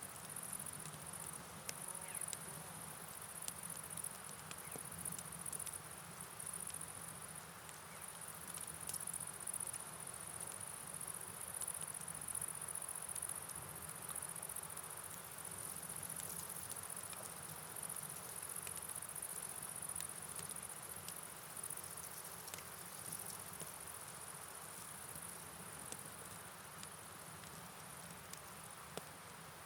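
Night ambience: a steady high-pitched chirring of insects over a soft wash of rain and flowing water, with scattered faint ticks.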